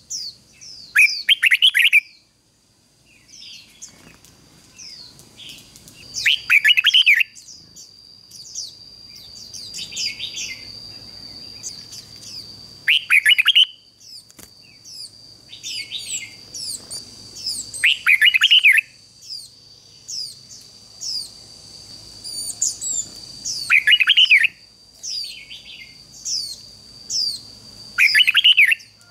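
Red-whiskered bulbul singing: short, loud warbled phrases repeated about every five or six seconds, with quieter chirps between them, over a steady high tone.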